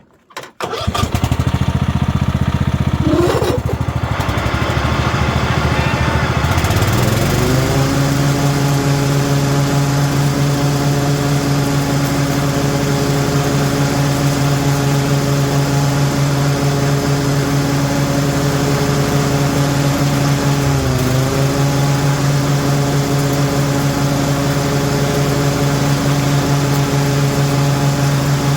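1998 Kohler Command 16 hp riding lawn mower engine starting: it catches about a second in, wavers in pitch for a few seconds, then settles into steady running, with a brief dip in pitch about twenty seconds in.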